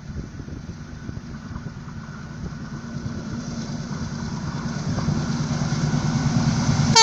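Approaching express passenger train's rumble, growing steadily louder as it nears, with the start of its horn sounding right at the end.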